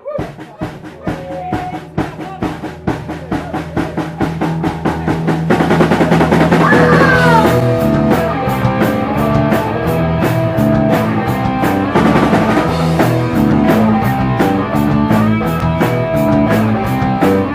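Live rock band playing a song's instrumental intro: a steady drumbeat and bass open it, building up, and the full band with electric guitar and crashing cymbals comes in about five and a half seconds in.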